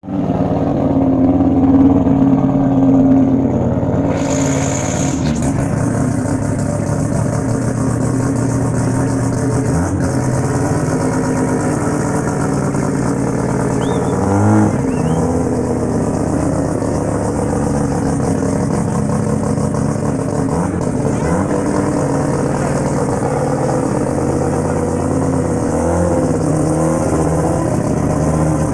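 Rotary (Wankel) engine running steadily, with a brief blip of revs about halfway through.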